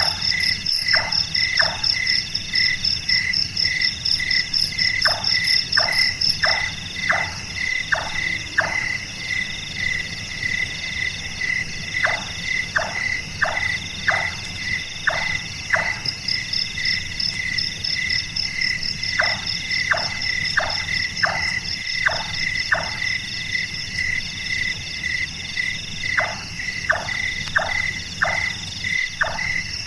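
Large-tailed nightjar calling: runs of about six sharp, hollow 'chonk' notes, roughly two a second, like a carpenter hammering, repeated every six or seven seconds. Behind it is a steady night chorus of trilling insects.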